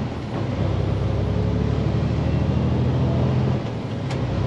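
Diesel truck engine running, heard from inside the cab. The engine sound dips briefly near the end, and there is a single sharp click.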